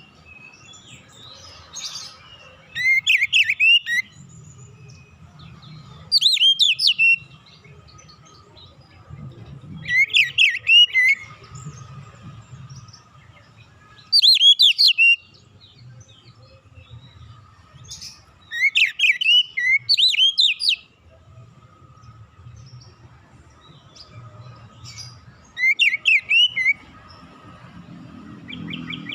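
Oriental magpie-robin (kacer) singing short phrases of quick, sweeping whistled notes, one burst every few seconds. A faint low hum runs between the phrases.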